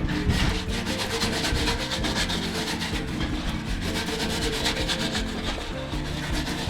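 Brush scrubbing a washing-machine part in quick repeated strokes, over background music.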